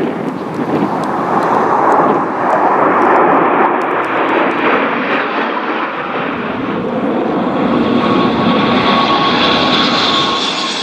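Military jet aircraft flying by, a loud continuous rushing engine roar, with a higher whine that climbs in pitch near the end.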